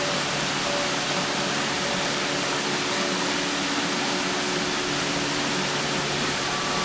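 A waterfall's steady rushing roar of falling water, even and unbroken.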